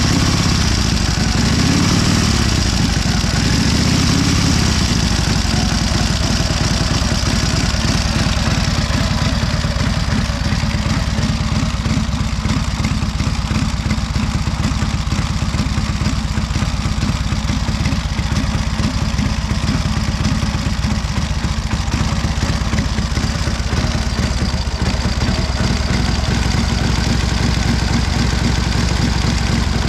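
1928 Indian 101 Scout's flathead V-twin engine running, revved up briefly twice in the first few seconds, then settling into a steady idle.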